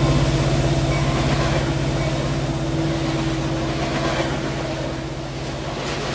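Diesel-electric freight locomotive engine running with a low steady drone and a fast throbbing pulse, slowly fading as the train moves away.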